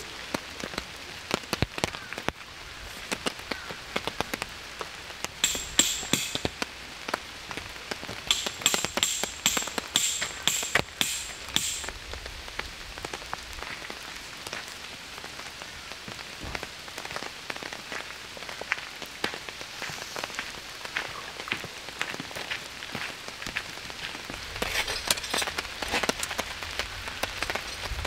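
Rain falling steadily, with many separate drops ticking sharply on a surface close by and a few short spells of heavier hiss.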